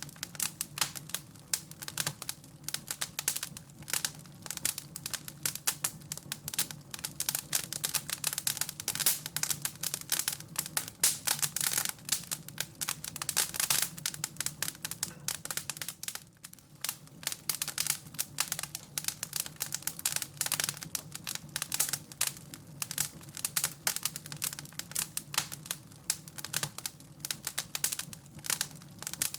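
Wood fire crackling and popping: dense, irregular crackles over a low steady hum.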